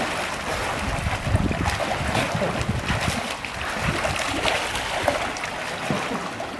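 Water splashing and sloshing with wind noise buffeting the microphone.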